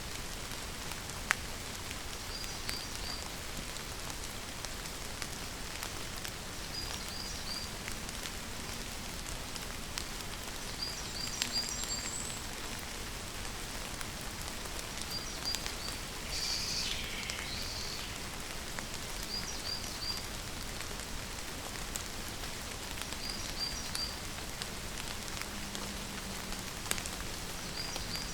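Steady rain falling, with a bird calling short high chirps in threes every three or four seconds and a longer call about sixteen seconds in.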